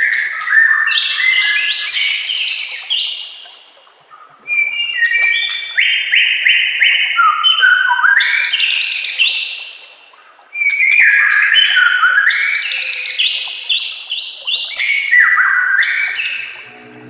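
White-rumped shama (murai batu) singing: three long phrases of fast, repeated clear notes that step up and down in pitch, broken by two short pauses.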